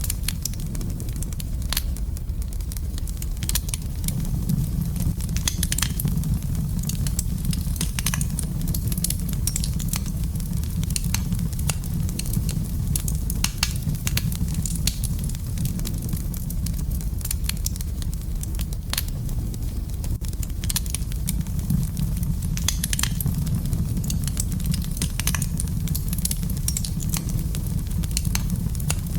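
Wood fire burning in a fireplace, with a steady low rumble of flame and frequent sharp, irregular crackles and pops.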